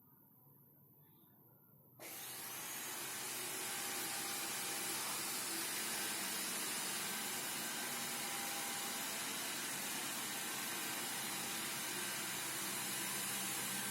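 Xiaomi Mijia 1C robot vacuum starting to clean: about two seconds in, its suction fan switches on suddenly and spins up over a couple of seconds, then runs steadily with a high hiss.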